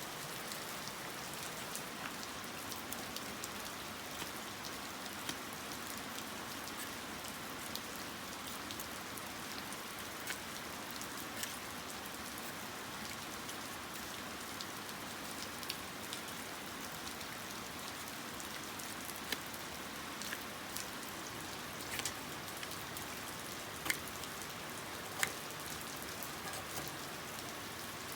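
Light, steady rain falling, with scattered sharper drops tapping, a few louder ones near the end.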